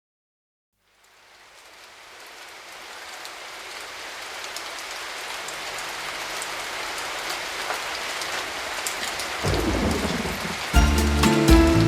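Steady rain fading in and growing louder, with scattered drop ticks. A low thunder rumble swells about nine and a half seconds in, and music begins near the end.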